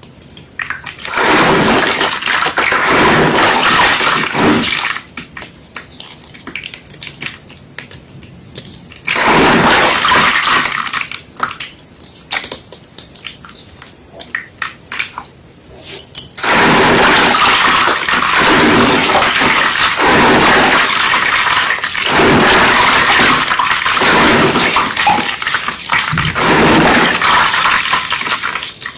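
Wet white gym chalk being crushed, crunching and squishing in three spells with quieter pauses between, the last one long and made of repeated surges.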